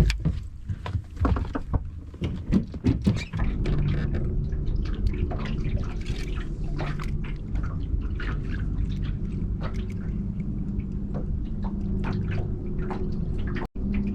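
Knocks and splashing water for the first few seconds, then a motor starts about three and a half seconds in and runs steadily under the sound of water pouring and dripping.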